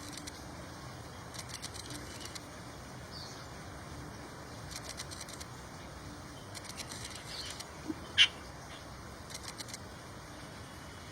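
Birds' wings fluttering in short bursts of quick light ticks every second or two, over a steady hiss, with one short sharp sound about eight seconds in, the loudest moment.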